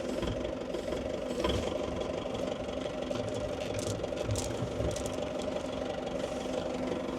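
An engine idling steadily, with a few faint knocks.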